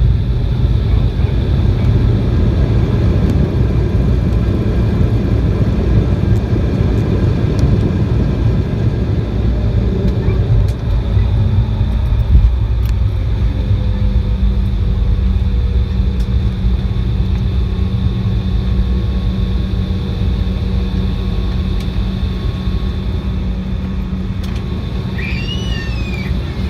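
Inside the cabin of an Embraer 175 jet: a loud, steady low rumble of its turbofan engines and rushing air that slowly eases off, under a thin high whine. A steady lower hum comes in about halfway through.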